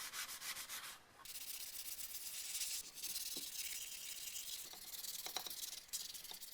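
Sandpaper rubbing over cured high-build primer on a steel car jack, sanding it back in quick repeated strokes, with short pauses about one second and three seconds in.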